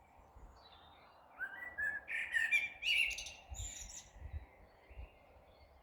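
Songbird singing: a run of quick chirps and warbled notes starting about a second and a half in and trailing off about four seconds in.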